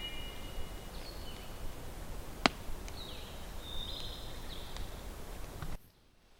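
Woodland ambience with small songbirds singing high, thin whistled notes and slurs, and one sharp click about two and a half seconds in. The sound cuts off suddenly near the end.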